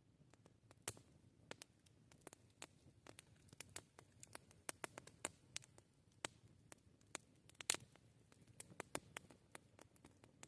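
Campfire crackling: burning wood giving off irregular sharp pops and snaps, several a second, over a faint low background noise, with louder pops about a second in and near the end.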